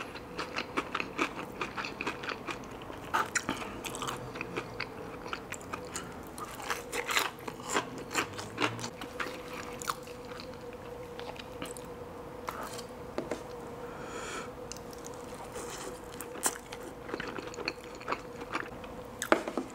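Close-miked chewing and biting of fried chicken, with crunchy bites and many short wet mouth clicks, over a faint steady hum.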